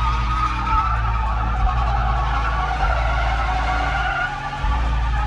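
A vehicle's engine running loud with tires squealing.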